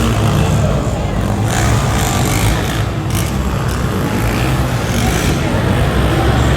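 Monster truck engine running loud and steady, with its pitch wavering slightly as the throttle changes.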